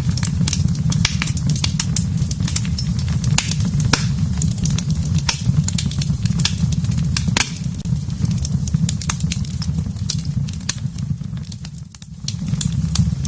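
Wood fire in a fireplace crackling, with frequent sharp pops and snaps over a steady low rumble. Near the end the rumble briefly fades and comes back.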